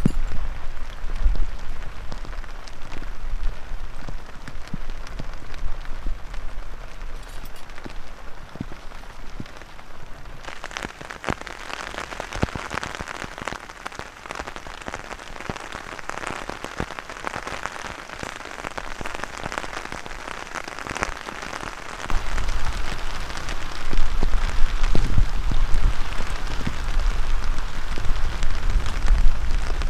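Heavy rain falling steadily. Gusts of wind rumble on the microphone at the start and again from about two-thirds of the way in, where it gets louder.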